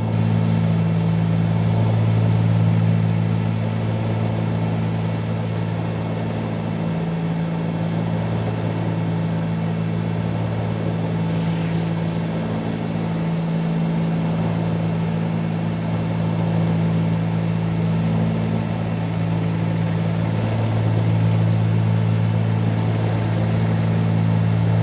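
The two piston engines of a 1974 Cessna 310Q twin running steadily in flight, heard from the cockpit as a low, even drone. The drone swells and dips slowly a couple of times.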